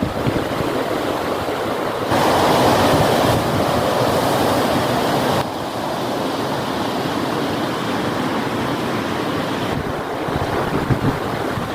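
Heavy rain and gusting wind, a dense steady hiss. It jumps louder and fuller about two seconds in and drops back abruptly a few seconds later.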